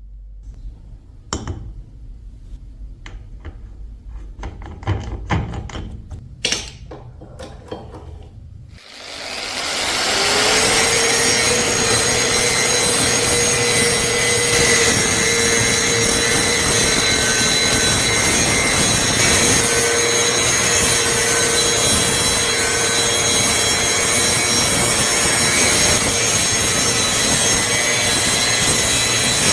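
A few handling clicks and knocks, then about nine seconds in a power tool spins up and runs steadily, grinding against metal to remove rust.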